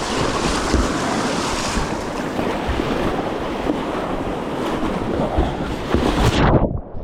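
Whitewater rapids rushing steadily around a kayak, with wind buffeting the microphone. Near the end the hiss drops away suddenly and the sound turns muffled and quieter.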